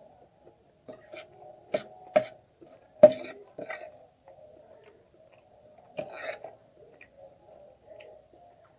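Close-up mouth sounds of eating chowmein noodles: wet smacks and clicks of chewing, with louder slurping bursts about three seconds in and again about six seconds in, over a faint steady hum.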